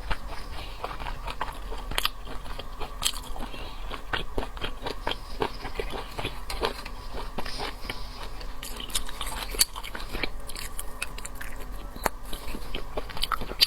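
A person chewing and biting seafood, with wet crunches and many irregular sharp clicks.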